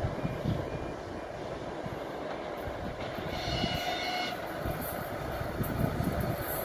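ChS4t electric locomotive with a passenger train running along the track, a steady rumble of wheels on rails. About three seconds in, a brief high tone sounds for about a second.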